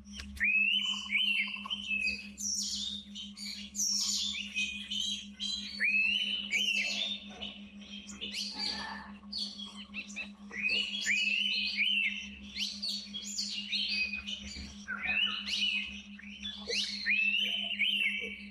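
Many forest birds calling at once, with repeated short whistled notes that rise and then level off, and busy higher chirps over them. A steady low hum runs underneath.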